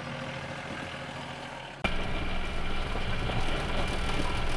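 A vehicle engine running steadily. A little under two seconds in it suddenly gets louder and stays at that level.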